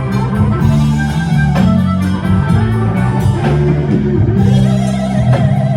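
Live blues band playing an instrumental passage: electric guitar over bass and drums, with no singing.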